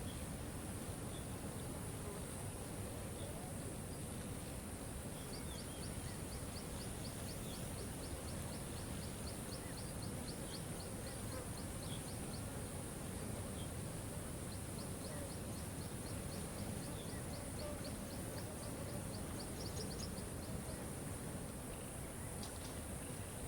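Steady rush of a waterfall with a steady high buzz above it. A bird trills twice in rapid high ticks, about six a second, starting about five seconds in and again about fifteen seconds in, with scattered short chirps between.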